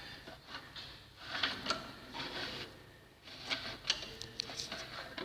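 Scattered light clicks and knocks with faint scraping, as of metal tools being handled during work on a cylinder block.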